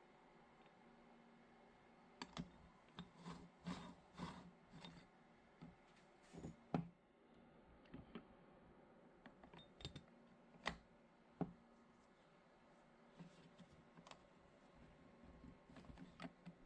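Irregular light clicks and knocks of small hard objects being handled, with quiet stretches between them. They start about two seconds in, the loudest come around the middle, and they thin out toward the end.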